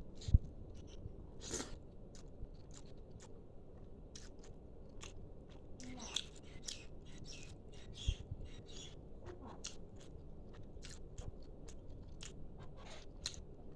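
A person chewing and biting close to the microphone, with many small wet mouth clicks and crunches, while eating a meal of chicken fry, egg fry and dal. Two dull knocks stand out, about half a second in and about eight seconds in.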